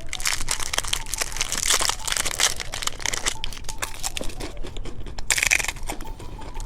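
Candy packaging being handled and unwrapped: a crinkly wrapper crackling and rustling in quick, uneven bursts.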